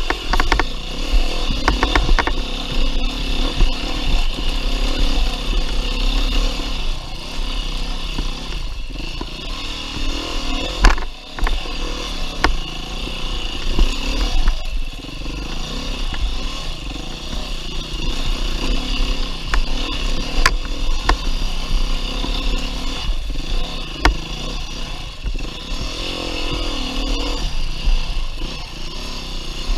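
A 2019 Beta 390 RR-S four-stroke single-cylinder enduro motorcycle running hard on a trail, its revs rising and falling with the throttle. Sharp knocks and clatter are heard now and then, and the engine drops off briefly about eleven seconds in.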